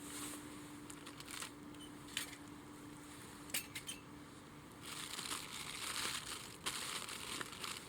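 Faint rustling and crunching, with a couple of sharp clicks about halfway through, over a low steady hum that fades out about four seconds in.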